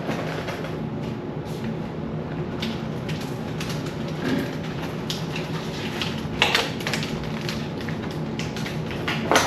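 Scattered knocks and clatter of objects being handled while a fridge is cleaned out, with a cluster about six and a half seconds in and a sharper knock just before the end, over a steady low hum.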